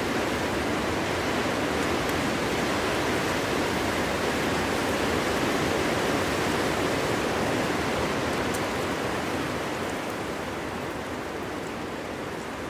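Strong winter wind blowing steadily as a dense rushing noise, easing off somewhat about nine seconds in.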